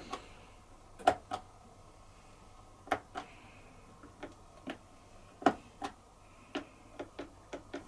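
Button clicks on a Bosch dishwasher's control panel, pressed one after another while stepping through its service-mode test programs. They come as about fourteen short, sharp clicks at uneven spacing, several in quick pairs.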